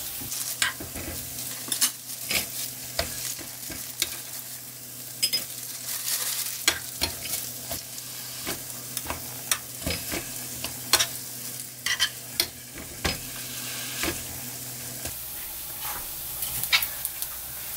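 Hotteok frying in oil in a frying pan: a steady sizzle with frequent crackles and pops of spitting oil.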